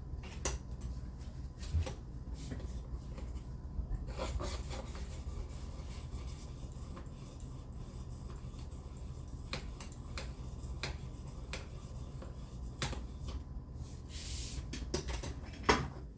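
Steel knife blade drawn across a ceramic sharpening plate: a series of separate short scraping strokes with light clicks, over a low steady hum.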